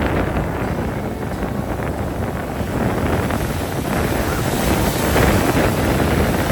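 Wind buffeting the microphone over the steady rush of rough surf.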